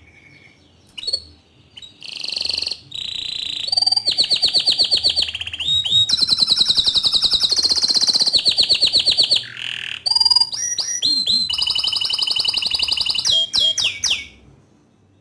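Green domestic canary singing loudly: a long, unbroken run of fast rolling trills and rapid repeated notes. The song starts about a second in and stops shortly before the end.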